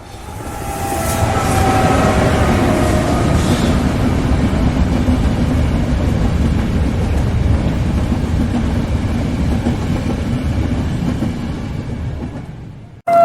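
Train passing with a steady rumble of wheels on the rails, swelling in over the first two seconds and easing off near the end. A faint tone sinks slightly in pitch during the first few seconds.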